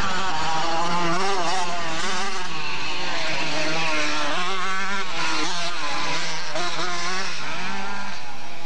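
Motocross motorcycle engines revving, their pitch rising and falling again and again as the bikes accelerate and shift.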